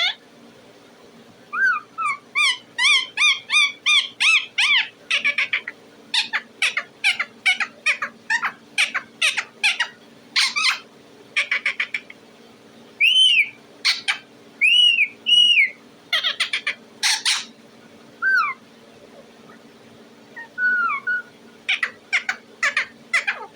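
Pet parrot chirping and whistling in runs of short, sharp chirps, several a second, mixed with a few longer arched whistles and short pauses.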